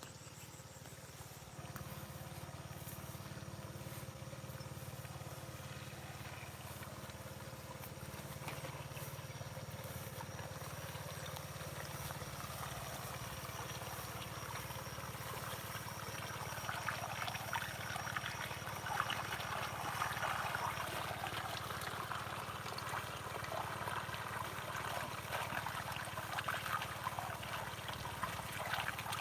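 Open-field outdoor ambience: a steady low hum under running, splashing water that grows louder from about halfway through.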